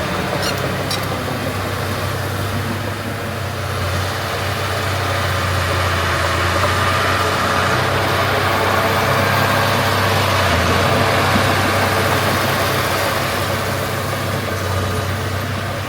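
Heavy diesel engine of earth-moving equipment running steadily. It grows a little louder in the middle and eases off toward the end.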